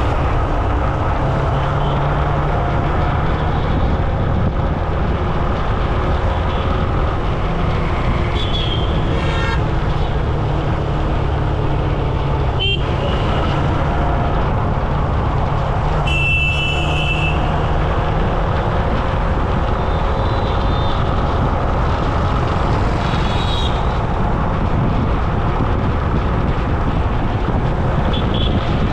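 Road traffic heard while riding: a steady low rumble of engines and wind, with several short vehicle horn toots. The longest toot, about 16 seconds in, lasts about a second.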